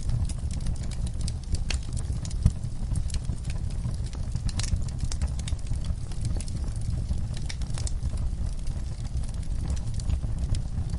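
Wood fire in a fireplace crackling: scattered sharp pops and snaps over a steady low rumble, with one louder pop about two and a half seconds in.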